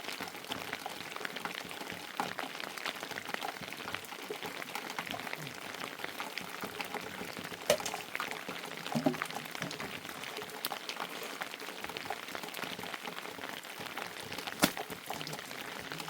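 Rain pattering steadily as a dense crackle of small drops, with a few sharper clicks, the loudest about halfway through and again near the end.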